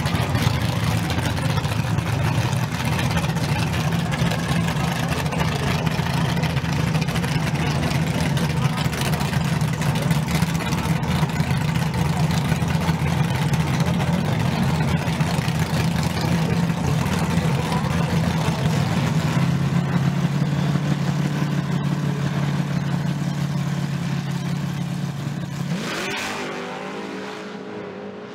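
Drag car engine running loud and steady at a held speed, stepping slightly lower in pitch about two-thirds of the way through, then cutting off and fading near the end.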